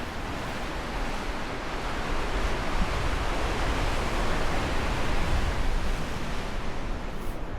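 Ocean surf washing against the rocky shore: a steady rush that swells through the middle and eases off near the end.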